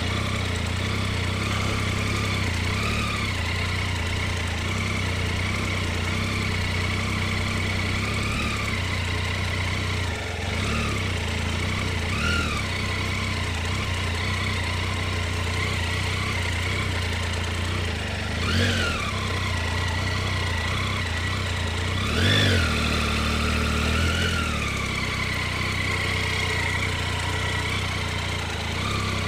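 Motorcycle engine running steadily as the bike is ridden, with two brief rises and falls in revs about two-thirds of the way through.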